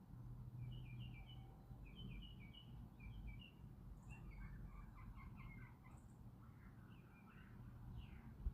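Faint outdoor birdsong: a small bird's short chirps, repeated in quick series, over a low steady rumble.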